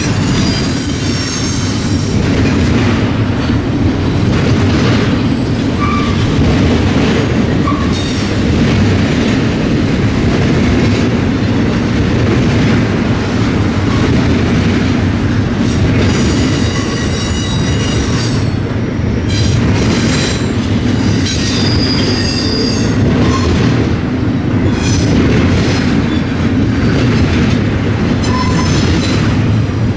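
Freight train cars rolling past with a steady low rumble, their wheels squealing high-pitched in several stretches as the flanges grind against the rail.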